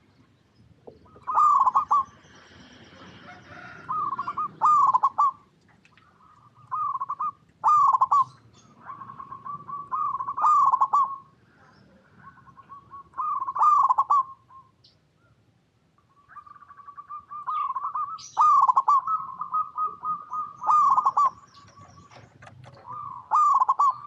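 Zebra dove (perkutut) cooing: loud short phrases of quick rolling notes, repeated every one to three seconds, with softer trilling between them.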